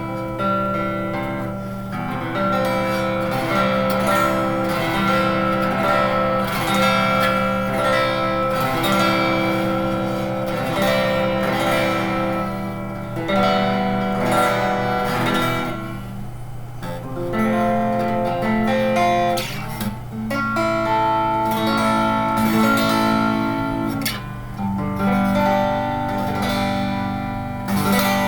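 Old Fender electric guitar played through a Fernandes amplifier with a clean tone: picked notes and chords in a slow, continuous phrase, over a steady low hum from the amp.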